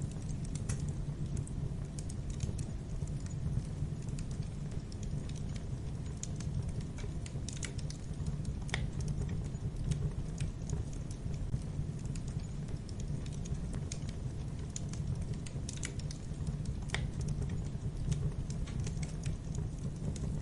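Campfire crackling: irregular sharp snaps and pops over a steady low rumble of burning wood.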